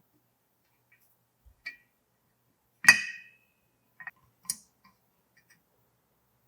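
A few scattered clicks and clinks of hard parts being handled. The loudest is a short ringing clink about three seconds in, with another sharp click about a second and a half later.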